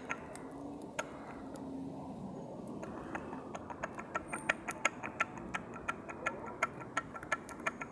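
Honda CG 125 connecting rod rocked by hand on its crankpin, clicking against the crankshaft a few times a second. The clicks come from radial play at a worn big-end bearing.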